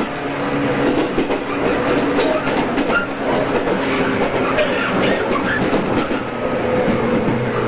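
Steady rail noise in and around a JR East 113 series electric train standing at a station stop.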